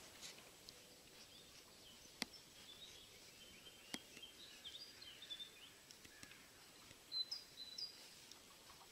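Faint outdoor birdsong: small birds chirping and twittering in short high phrases, with a brighter, louder phrase about seven seconds in. Two sharp clicks sound, about two and four seconds in.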